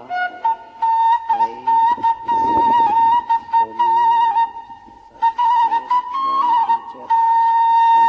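Flute-like whistling: a high tone held for long stretches with a wavering pitch, breaking off briefly now and then.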